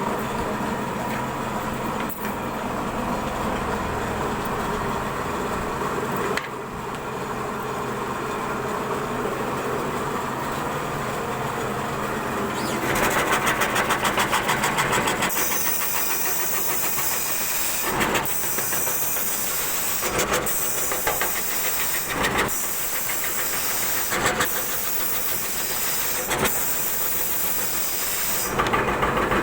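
CNC router spindle running and cutting wood, a steady machine whine. About halfway through the cutting grows louder and hissier, with short surges about every two seconds.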